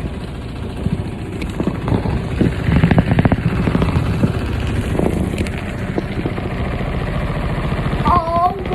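Washing machine vibrating hard as it runs, a loud rapid rattling and knocking over a low rumble, loudest about three seconds in. A short warbling tone sounds near the end.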